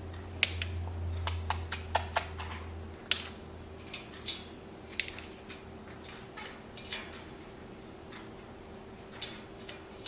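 Small, sharp, irregular clicks and ticks from a parrot, about one or two a second, over a low steady hum that stops about three seconds in.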